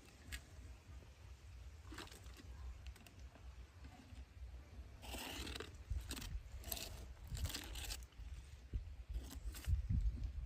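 Crunching and tearing of an animal feeding, in several short bursts bunched around the middle, over a steady low rumble.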